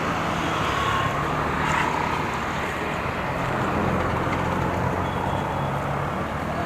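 A motor vehicle engine running steadily, with a low hum over a steady wash of street traffic noise.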